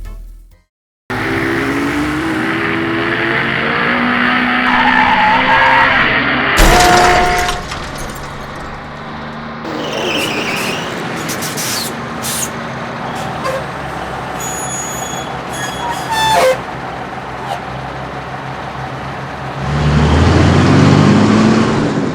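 Cartoon truck sound effects: an engine running and rising in pitch over the first few seconds, with a sharp thump about six and a half seconds in, scattered clicks and beeps, and a louder noisy surge near the end.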